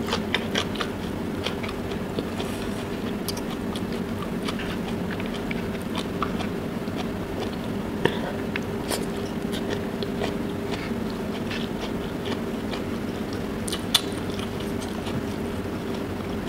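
Close-miked eating sounds: chewing and wet mouth smacks as someone eats rice and prawns by hand, with scattered sharp clicks, the loudest about nine and fourteen seconds in, over a steady low hum.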